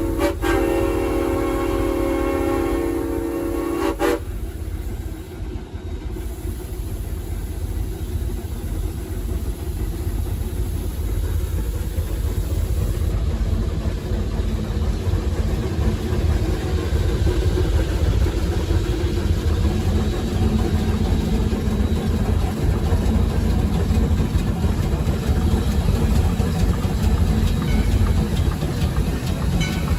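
Three-truck Shay geared steam locomotive's whistle blowing a steady chord, cutting off sharply about four seconds in. After that the locomotive runs on with a steady low rumble, heard from the cab.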